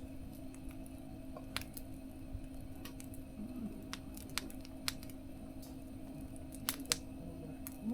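Wood fire burning in a small camp stove, with irregular sharp crackles and pops over a steady low hum.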